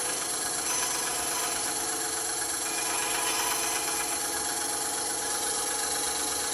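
Band saw running steadily.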